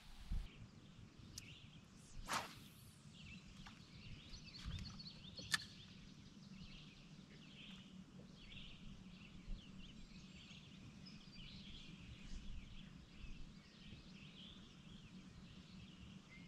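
Faint birds chirping over a low steady hum, with a brief whoosh about two seconds in and a single sharp click a few seconds later.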